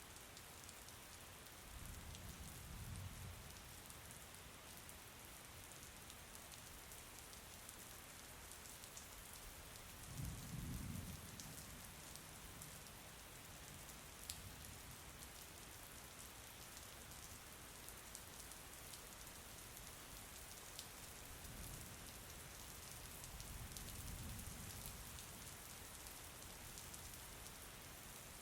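Steady, soft rain falling, with scattered drop ticks and a few brief low rumbles.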